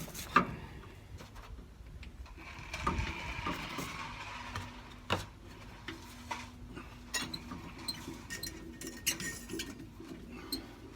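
Scattered clinks, taps and knocks of hand tools and metal parts being handled, with a short scraping stretch a few seconds in.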